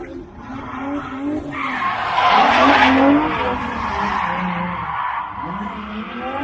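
Drift car's engine revving up and down as it slides, with a loud burst of tyre screech about two seconds in.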